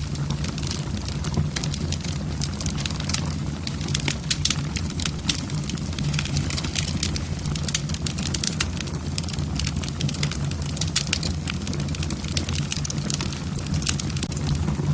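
Logs burning in a fireplace, crackling and popping in quick irregular snaps over a steady low rumble of the fire.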